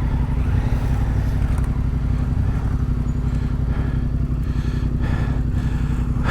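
Adventure motorcycle engine idling steadily, a low even running note that holds without revving.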